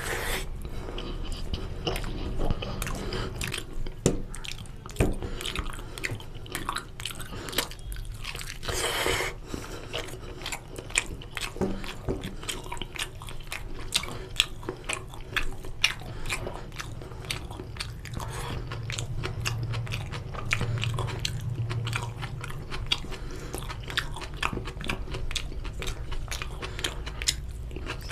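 A person chewing and biting chicken curry with rice, with many small wet clicks and occasional crunches.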